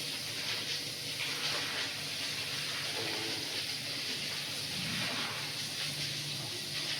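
Water running steadily from a hose, washing down the floor while the cowshed is cleaned.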